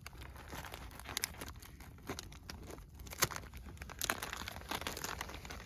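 Close-up crinkling and rustling with irregular sharp snaps and crackles, the loudest snap a little past the middle.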